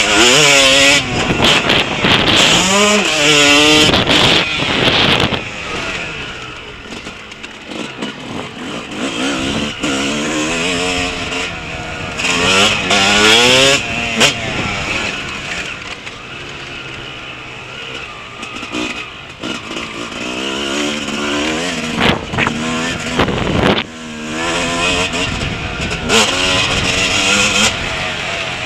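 Yamaha motocross bike engine revving hard and falling back again and again as it is ridden round a dirt track, the pitch climbing through each gear, with rushing wind noise and a few sharp knocks over bumps.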